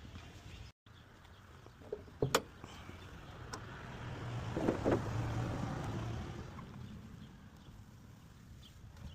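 A couple of sharp knocks, then a passing vehicle that swells to a peak about halfway through and fades away.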